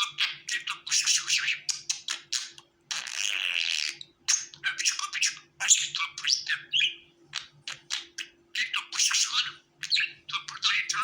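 Budgerigars chirping and warbling in quick, busy chatter, with a denser, harsher scratchy stretch about three seconds in.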